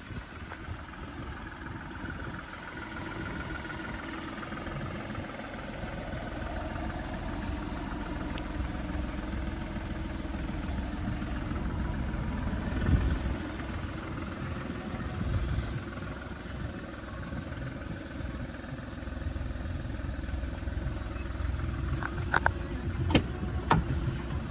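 Skoda car engine running steadily with a low rumble, with a few sharp clicks near the end.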